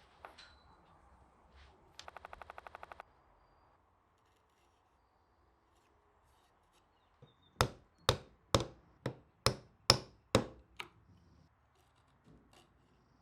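A series of eight sharp hammer blows on wood, a little over two a second. A brief rapid rattle about two seconds in comes before them.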